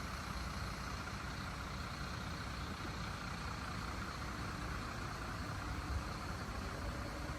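A vehicle engine idling steadily, a low continuous rumble with a faint steady whine above it.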